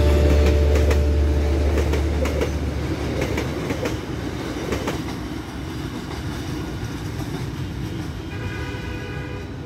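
Freight train of covered box wagons rolling past at a level crossing, wheels clattering over the rail joints. The sound fades as the last wagons pull away.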